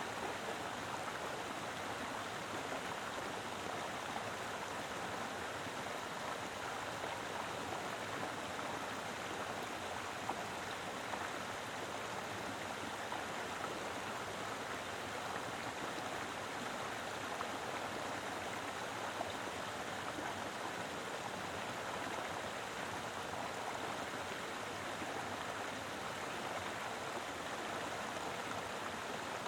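A mountain river flowing: a steady, full rush of water running over rocks.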